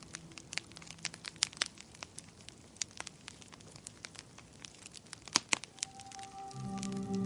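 Wood fire crackling in a fireplace: irregular sharp pops and snaps, a couple of louder ones in the second half. Soft sustained music fades out near the start and comes back in near the end.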